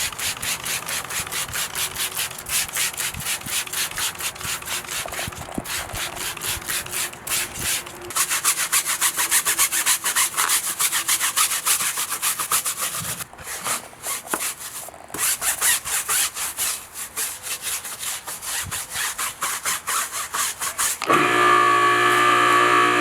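Stiff brush scrubbing a tire with tire and rubber cleaner in quick, even strokes, several a second, with a couple of short pauses. About two seconds before the end, a steady machine hum starts abruptly and is louder than the scrubbing.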